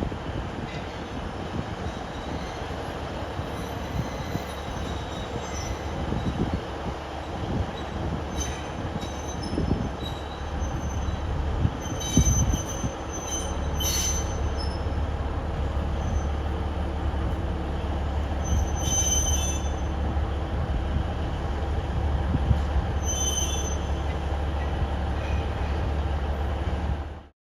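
Alishan Forest Railway diesel locomotives running steadily while shunting in the depot, a low engine rumble with short high-pitched squeals from wheels or brakes several times, around the middle and near the end.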